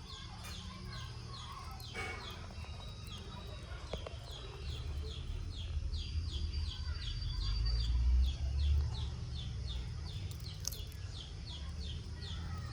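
A bird making short, high chirping calls over and over, about three a second, with a low rumble underneath that swells in the middle.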